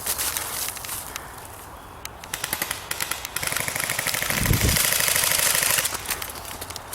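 Airsoft gun firing full-auto: short bursts of rapid clicks, then a long, louder burst lasting over two seconds before it stops. A low thump comes about halfway through.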